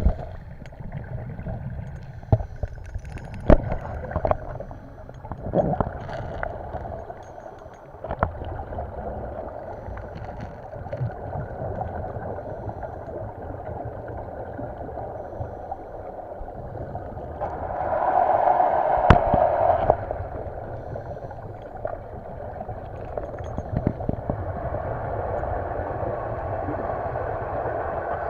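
Muffled water noise with gurgling, scattered knocks and clicks, and a louder burst of bubbling about 18 seconds in.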